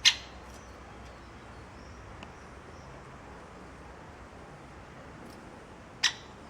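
Two short, sharp, high calls from a small animal, one right at the start and one about six seconds later, over a faint steady background hiss.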